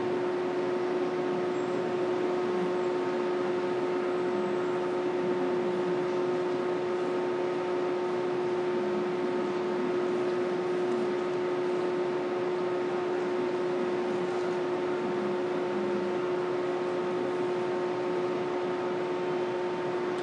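Train standing at the station platform, giving a steady electrical hum: one strong constant tone with several fainter, higher steady tones over an even rushing noise.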